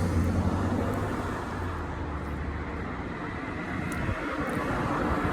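Steady low hum of a motor vehicle with road-noise haze, the hum fading about two seconds in.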